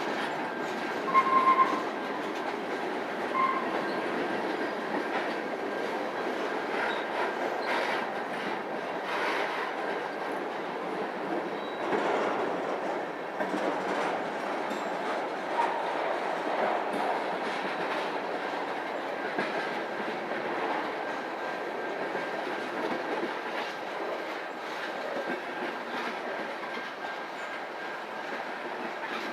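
Railroad cars rolling past with a steady rumble and the clickety-clack of wheels over rail joints. Two short tones sound near the start.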